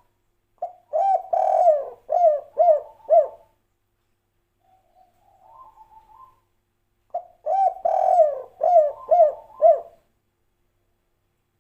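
Spotted dove (tekukur) cooing its 'kuk 3' song twice. Each phrase is a run of low coos with a longer note, ending in three short notes. Softer, quieter warbling notes fall between the two phrases.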